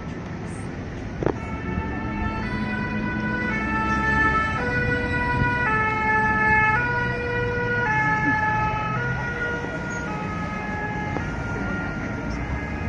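French ambulance two-tone siren alternating between a high and a low note, each held about a second. It grows louder toward the middle and then fades, over steady traffic noise.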